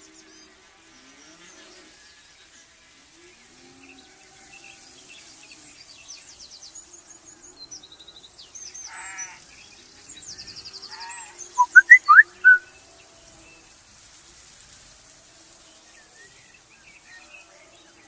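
Outdoor birdsong: scattered chirps and trills over a steady high insect buzz that stops about four seconds in, then about two-thirds of the way through, four loud, sharp whistled bird calls in quick succession.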